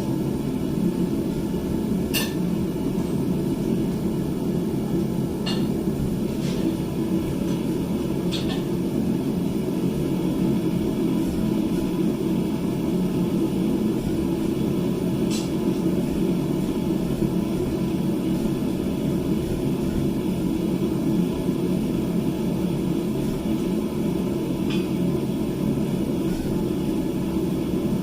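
Blacksmith's forge running with a steady low rushing noise while the bar heats, with a few light metal clicks scattered through it.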